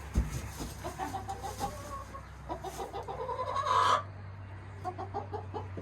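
Chickens clucking: a string of short clucks, with a louder, longer call about four seconds in. A thump sounds just after the start, over a steady low hum.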